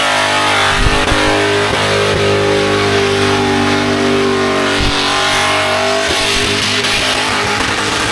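Car engine held at high, steady revs at a burnout pad, with music playing over it.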